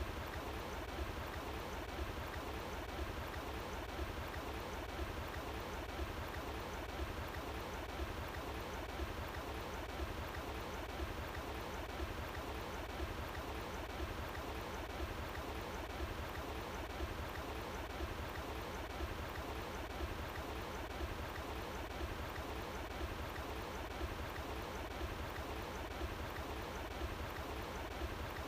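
Running water flowing steadily outdoors, a continuous even rush with a low rumble underneath.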